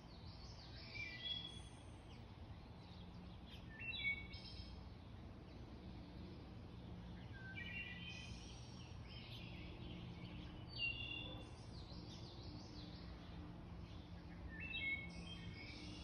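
A songbird singing short, bright phrases, each a quick run of high notes, repeated every three to four seconds. A faint steady low hum lies underneath.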